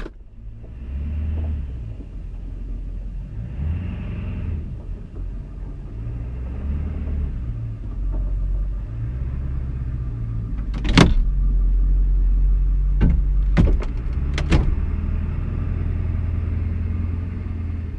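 Diesel pickup truck engine running at a cold idle, an uneven low rumble. Four sharp knocks come a little past the middle.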